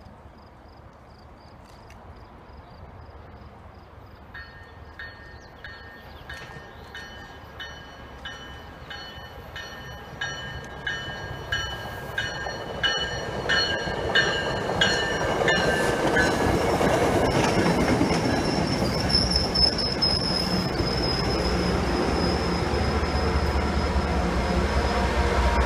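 MBTA commuter train approaching and passing. Its warning bell rings in steady, regular strokes for about ten seconds. Then the train's rumble grows loud as the cars go by, with a high wheel squeal in the second half.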